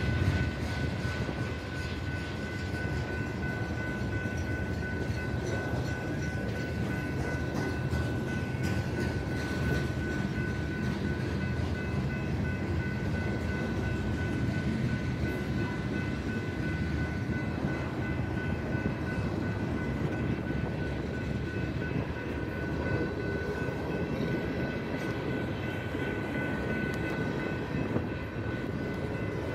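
Union Pacific train rolling past at a steady pace: a continuous rumble with several steady high ringing tones above it.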